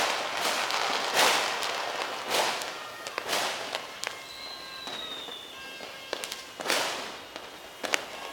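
Fireworks going off: a series of sharp bangs and crackling, heaviest in the first couple of seconds and again near the end. About four seconds in, a firework whistles for about a second, falling slightly in pitch.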